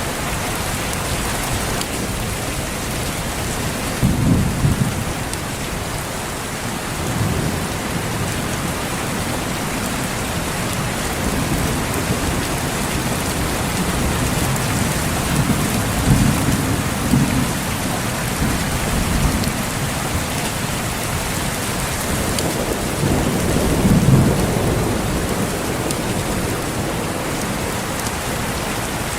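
Steady heavy rain falling on foliage and surfaces, with low rolls of thunder swelling up several times, the strongest about four seconds in and near the end.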